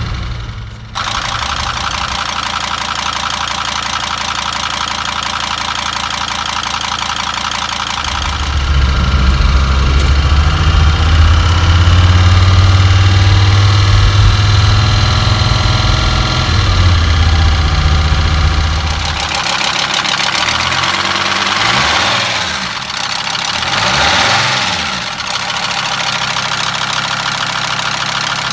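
Mercedes Sprinter T1N engine running with a loud clanking noise, which the owner suspects is a bad main bearing, or possibly a loose cam chain or a bad lifter. It runs steadily, gets louder about a third of the way in, and near the end is revved up and back down twice.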